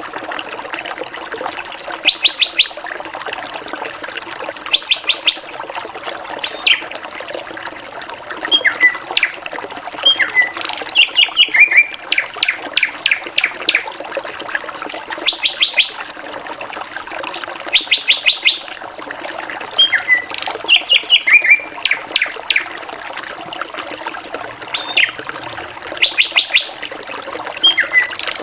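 A drongo singing a varied song of short bursts: quick rattling series of sharp high notes and slurred whistles, repeated every few seconds over a steady hiss.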